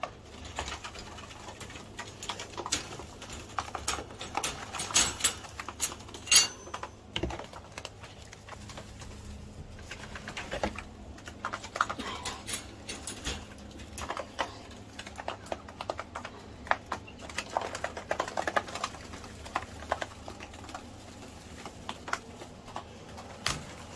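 Coturnix quail dust-bathing in sand: irregular scratching and pattering of sand being kicked and flicked, with clusters of sharp little ticks.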